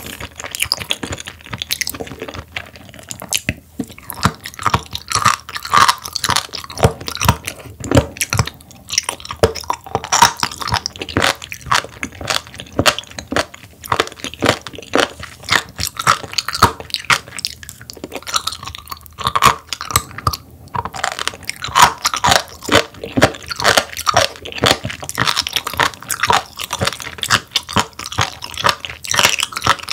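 Close-miked chewing of raw sturgeon, a steady run of crisp, wet crunching bites, several a second.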